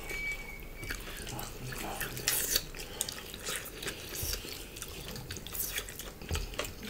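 Eating sounds up close: moist chewing with a run of small wet mouth clicks and lip smacks. A faint, thin high tone sounds during the first second.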